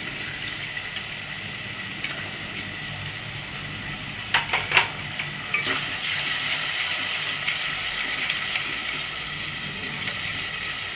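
Onion-and-spice masala sizzling in oil in a pan with sour curd just added, a spoon stirring it and clicking against the pan a few times near the middle. The sizzle grows louder a little past halfway.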